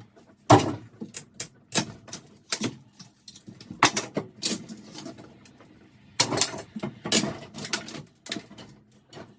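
Irregular clatter of knocks, rattles and scrapes from hands working through old plaster-and-lath debris, with a few louder crunches about half a second in, around four seconds in and six to seven seconds in.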